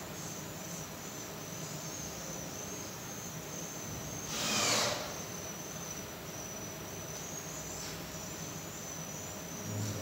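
Steady high-pitched insect trill, like crickets, over an even background hiss, with one brief louder falling sweep about four and a half seconds in.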